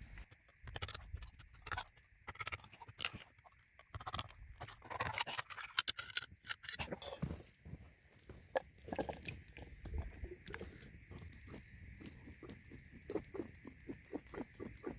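Mora knife being worked into the lid of a tin can to open it: a run of short metal clicks, pops and scrapes, coming quicker and more evenly in the second half.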